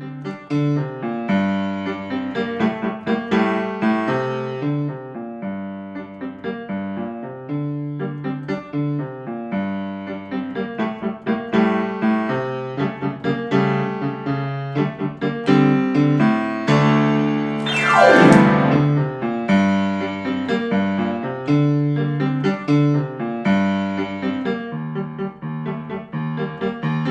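Solo piano playing a fast, energetic elementary-level piece, with one sweeping downward glissando across the keys about two-thirds of the way through.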